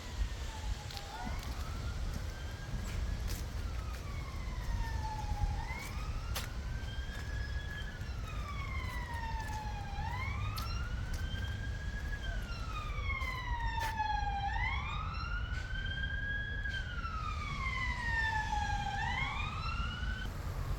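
An emergency vehicle's siren wailing, its pitch slowly rising and falling about every four and a half seconds, over a steady low wind rumble.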